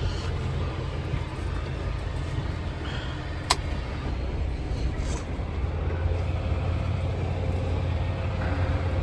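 Semi truck's diesel engine running with a steady low rumble, heard from inside the cab, with one sharp click about three and a half seconds in.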